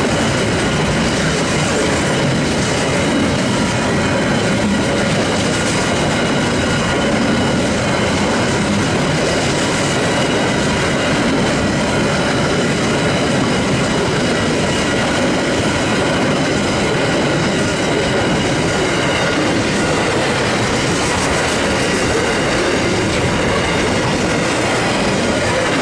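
Long container freight train rolling steadily past on the rails, wagons and wheels clattering at an even loudness, with thin steady high tones over the noise.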